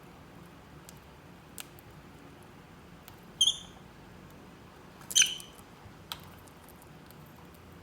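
Lovebird giving two short, shrill chirps about two seconds apart, with a few faint clicks between them.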